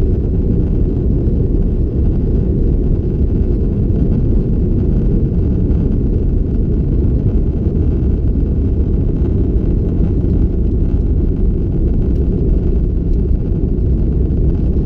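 Steady, loud cabin roar of a Qantas Airbus A330-200 in flight, heard from a passenger seat: jet engine and airflow noise, deep and unchanging.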